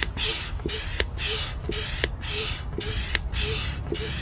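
Pump inflating an inflatable canoe, worked in steady strokes about twice a second. Each stroke gives a hiss of air, with a small squeak or click from the pump.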